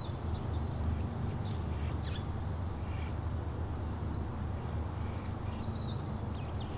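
Outdoor ambience: a steady low rumble with a few faint bird chirps, the longest a wavering call near the end.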